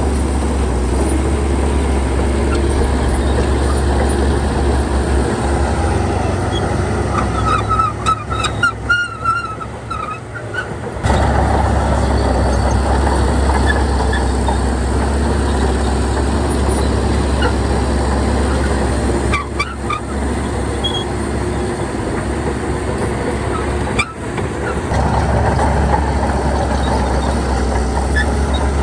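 Shantui bulldozer's diesel engine running steadily, working hard. About eight seconds in the engine note drops for a few seconds while a string of short high squeals sounds, then the engine picks back up.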